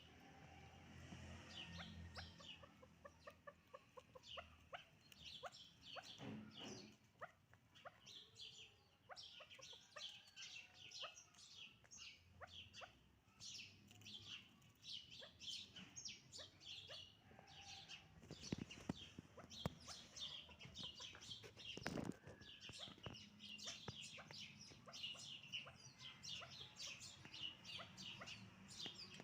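Chukar partridges calling, a long run of quick repeated clucking notes, faint. A few soft knocks come partway through.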